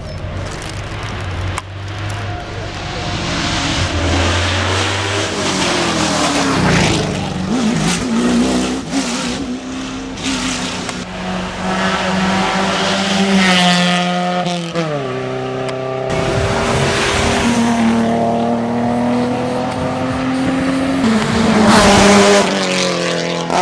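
Hill-climb race car running hard at full throttle, the engine revving up repeatedly and its pitch dropping sharply at gear changes as it climbs past.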